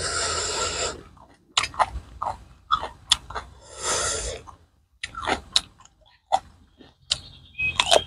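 Close-miked eating: wet chewing and crunching of raw vegetables with pounded fish dip, a string of short irregular crunches and mouth clicks, with two hissing stretches about a second long, one at the start and one around the middle.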